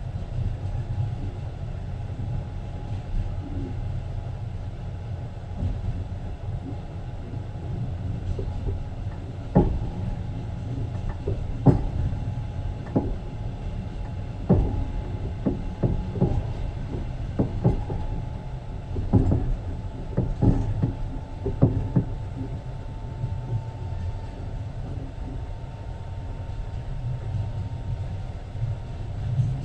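Passenger train running, heard from inside the carriage: a steady low rumble, with a run of sharp irregular knocks from the wheels on the track through the middle.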